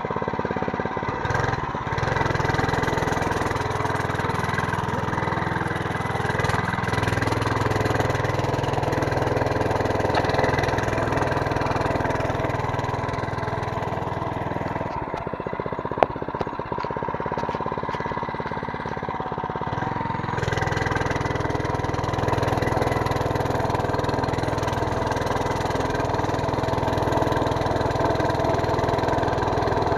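A mini bike's small engine running steadily while being ridden. Its low rumble drops for a few seconds in the middle and then comes back, and there is one sharp click about halfway through.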